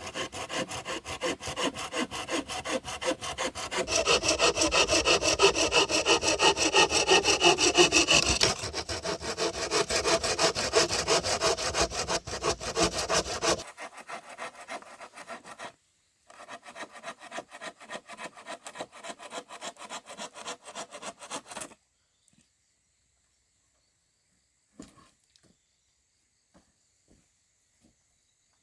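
Hand saw cutting wood with quick, even back-and-forth strokes, loudest from about four to eight seconds in. After a short pause the sawing resumes more quietly, then stops about three-quarters of the way through, leaving only a few faint clicks.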